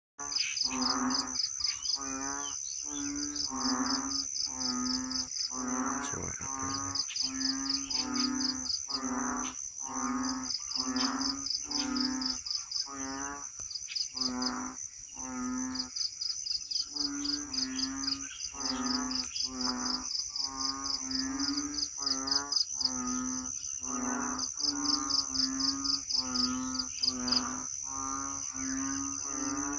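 An unseen animal calling over and over, about one low, wavering call a second, with only a brief gap near the middle. Behind it runs a steady high-pitched whine, with bursts of fast, high pulsing that start and stop.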